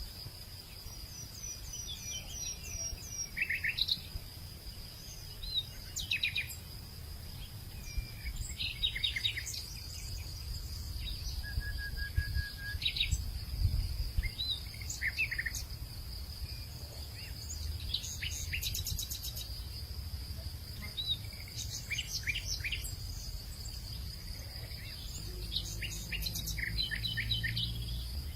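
Hillside afternoon ambience: several birds chirping and trilling in short calls, over a steady high insect drone and a low rumble of wind.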